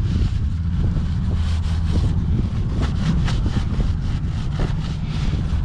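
Paper towel rubbing over an oily motorcycle chain, a series of short scraping wipes, over a steady low rumble.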